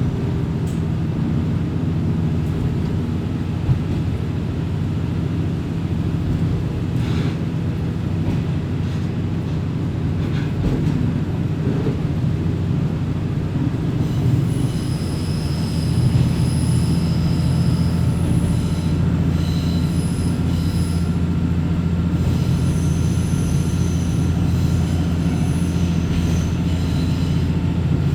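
Diesel railcar running, heard from inside the car: a steady low engine and rail drone. About halfway through, high-pitched wheel flange squeal starts and comes and goes as the wheels grind round curves.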